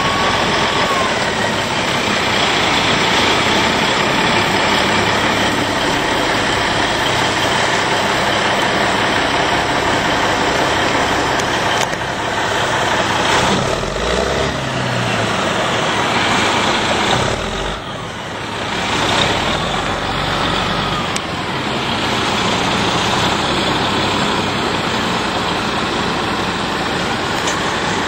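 Heavy truck engine running steadily, with a brief drop in level about two-thirds of the way through.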